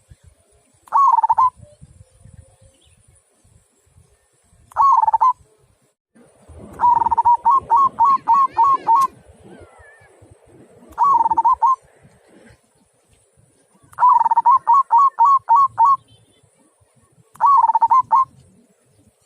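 Zebra dove (perkutut) singing: six cooing phrases, each a short burst of soft notes around one pitch, some drawn out into a quick run of six to eight notes. The bird is a local Javanese perkutut, and the song is the deep 'kung'-ended kind prized by keepers.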